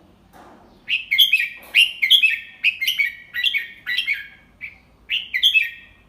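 Red-whiskered bulbul singing a quick run of short, clear whistled phrases that starts about a second in. This is the song of a tutor bird, the kind of recording played for young bulbuls to copy.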